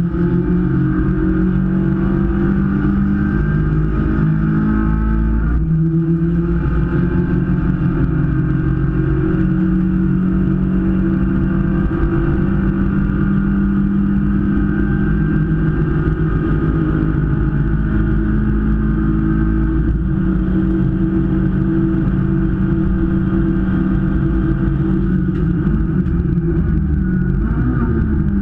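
Engine of a Hyundai Veloster race car heard from inside its cockpit, running hard at high revs under load. Its pitch holds steady with small steps, dips briefly about six seconds in and drops near the end.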